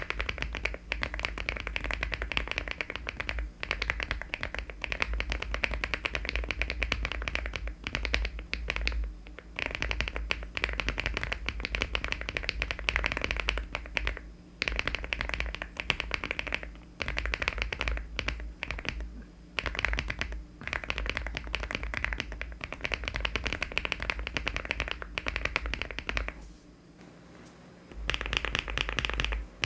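Rapid continuous typing on a LEOBOG Hi75 aluminium mechanical keyboard fitted with HMX switches and Cherry-profile keycaps, a dense run of key clacks with a few short pauses and one longer break near the end.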